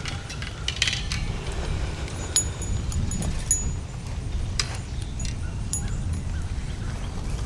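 Wind rumbling on the microphone, with scattered light clicks and clinks throughout.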